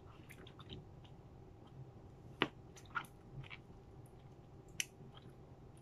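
Faint wet chewing and mouth smacks of a person eating juicy grapefruit segments: scattered short squishy clicks, the loudest about two and a half seconds in.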